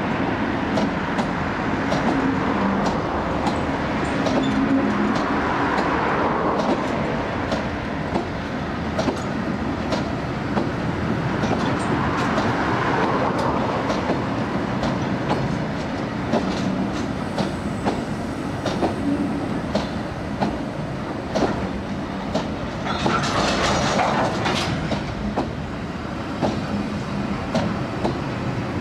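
Long rake of empty ballast box wagons rolling past at low speed, with a steady rumble and frequent clicks and knocks as the wheels run over rail joints. A brief harsher, higher noise from the wheels comes about three-quarters of the way through.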